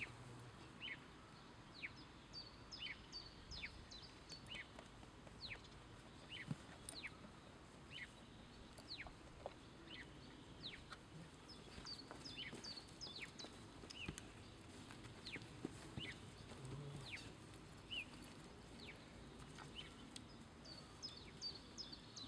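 Faint bird calls: short, high chirps that slide downward, repeated irregularly, sometimes in quick runs of two or three.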